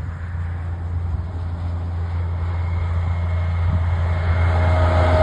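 Heavy truck's diesel engine pulling up a hill under load: a deep, steady drone that grows steadily louder.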